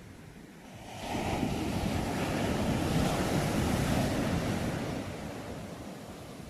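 Sea waves breaking on the shore: a wave surges in about a second in, builds to its loudest midway, then washes back and fades near the end.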